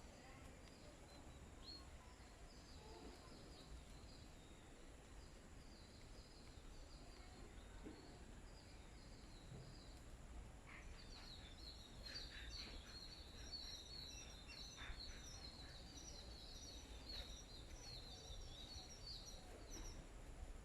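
Small birds chirping faintly in quick repeated series, sparse at first and becoming a busier, louder run of chirps about halfway through.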